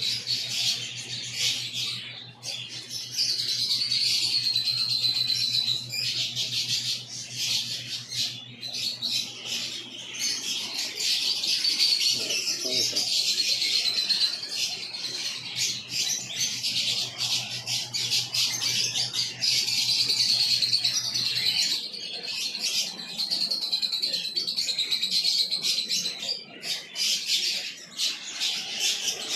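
Many caged birds chirping and squawking at once in a dense, continuous chatter. A steady low hum runs underneath and stops about three quarters of the way through.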